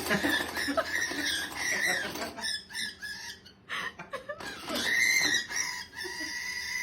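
A pet animal squealing in repeated short, high-pitched calls, in two bouts, upset over a toy being taken from its box.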